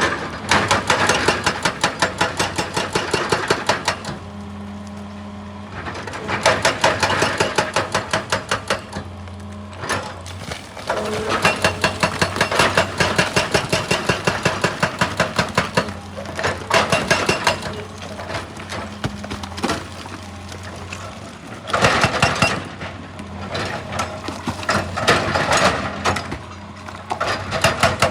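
Excavator-mounted hydraulic breaker hammering rock in rapid, evenly spaced blows over the steady running of the excavator's engine, stopping briefly a few times and starting again.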